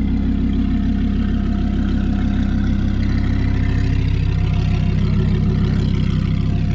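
Audi R8's straight-piped V10 idling steadily.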